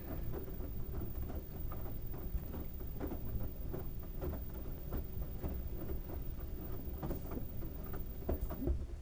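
LG washing machine running with a load of wet towels: a steady low rumble from the drum, broken by irregular soft thuds and clicks as the load tumbles.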